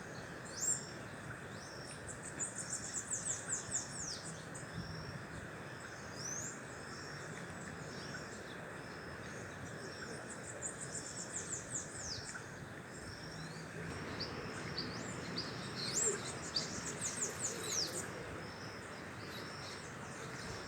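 Birds calling: high chirps throughout, with three runs of quick falling notes, over a steady background hum.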